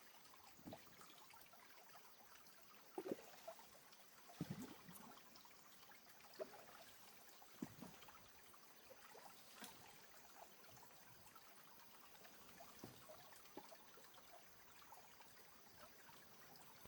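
Faint trickling water, close to silence, with soft scattered knocks and splashes every second or two, the loudest a few seconds in.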